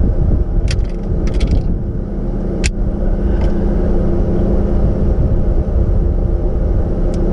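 Vehicle engine idling steadily, with several sharp clicks and clinks over it.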